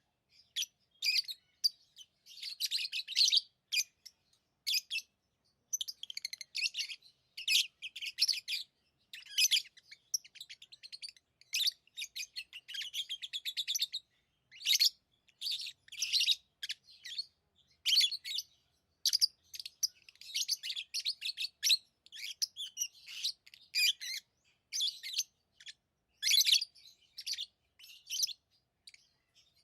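Pet lovebirds chirping: a busy stream of short, high-pitched chirps and rapid trills in quick bursts with brief gaps between.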